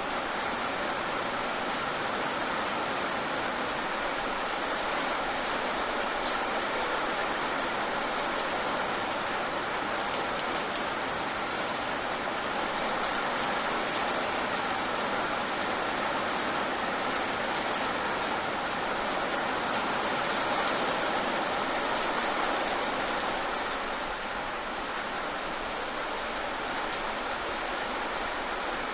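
Steady rain falling, with the ticks of individual drops scattered through it.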